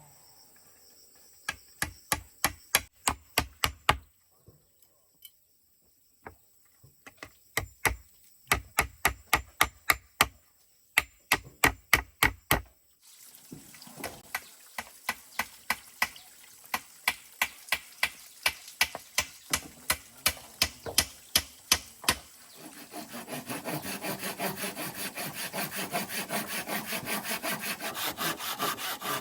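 Wood being sawn by hand: runs of sharp, regular saw strokes at about three a second, broken by short pauses. In the last seven seconds the strokes become a denser, steadier rasping.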